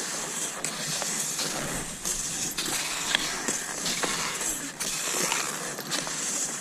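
Cross-country skis swishing over snow in a repeating stride, a continuous hiss that dips briefly every second or two, with a few faint clicks.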